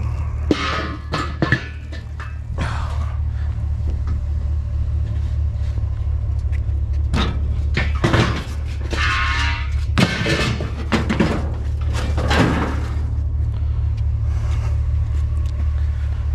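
A vehicle engine idles with a steady low hum, while rustling, scraping and a few knocks come and go, clustered early on and again in the middle.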